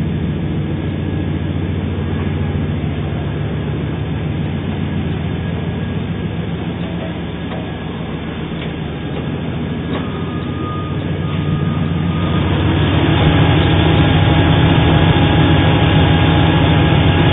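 The 5.3-litre V8 of a 1999 GMC Sierra 1500 pickup running steadily, getting louder about twelve seconds in.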